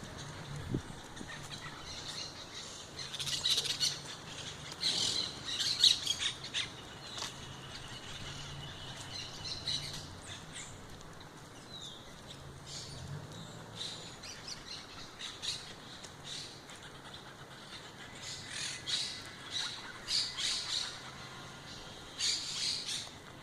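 Birds chirping and squawking in short bunched bursts of high calls, with quieter stretches between them and a faint low hum underneath.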